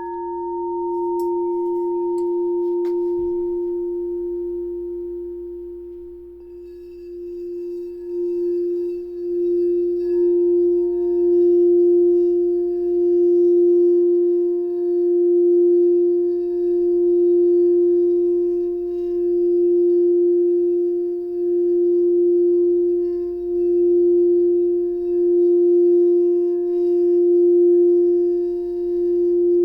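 Singing bowl struck once, its ringing tone fading over several seconds, then played around the rim so the tone swells back and pulses in a slow regular wobble, about once every second and a half.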